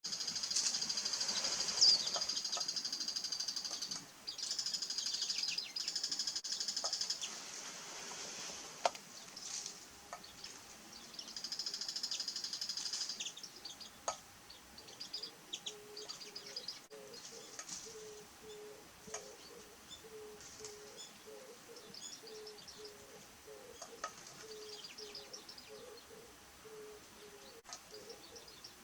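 Small songbirds twittering in rapid, high chatter that comes in bursts of a few seconds, loudest in the first half, then scattered single chirps. Under the later chirps a faint low note repeats about twice a second.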